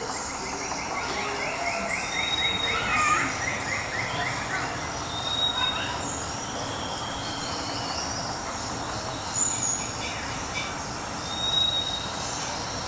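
Birds calling over a steady background hiss: a rapid trill in the first few seconds, then several short, high whistles.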